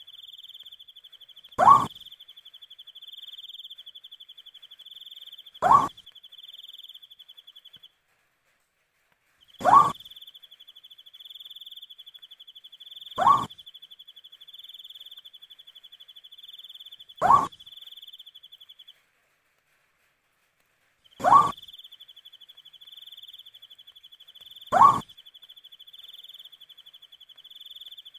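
An owl gives seven short, loud, upward-sliding hoots, one every three to four seconds, over a steady high cricket trill. The trill cuts out completely twice, for a second or two each time.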